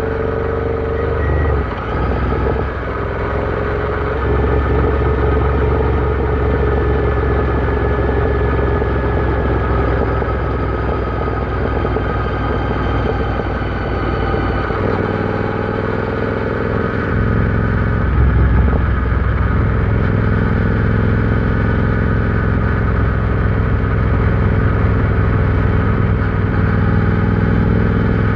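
Royal Enfield Interceptor 650's 648 cc parallel-twin engine running on the road, heard steadily. The engine note dips briefly about two seconds in and again around the middle, then picks back up stronger.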